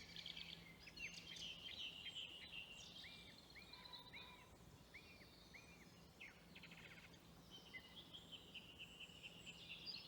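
Faint songbird song at dusk: twittering, trilling song throughout, with a run of about six short repeated arching notes in the middle.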